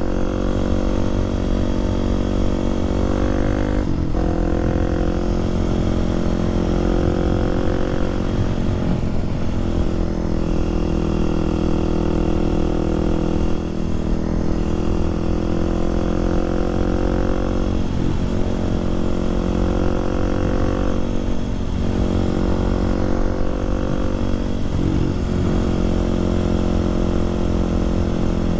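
Kawasaki KLX300SM supermoto's single-cylinder four-stroke engine pulling while riding. Its note climbs in each gear and drops back sharply at each upshift, about every four seconds.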